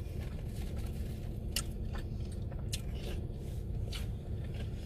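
Close-up eating sounds: bites and chewing of sugar-dusted fried dough balls, with a few soft mouth clicks and smacks, over a steady low hum.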